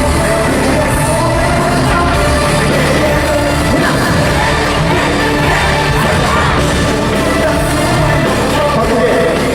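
Live pop concert music with a singer over a loud backing track, and the audience yelling along.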